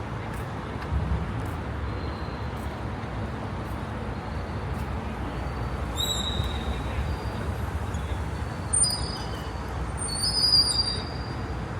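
City street ambience: a steady low rumble of traffic, with a few brief high-pitched chirps or squeaks about six, nine and ten and a half seconds in.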